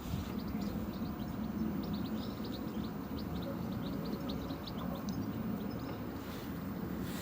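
A small bird chirping in a rapid string of short, high notes that stops about five seconds in, over a steady low background rumble.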